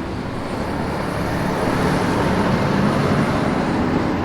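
Motor vehicle running: steady engine and road-noise rumble that builds up at the start and then holds.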